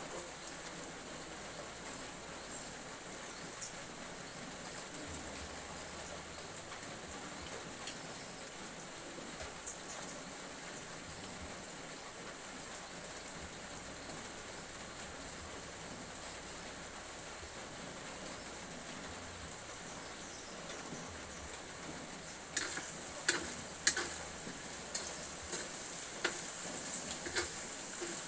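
Food sizzling steadily in a wok over a charcoal stove. About three-quarters of the way through it grows louder, with sharp clinks and scrapes of a utensil stirring against the wok.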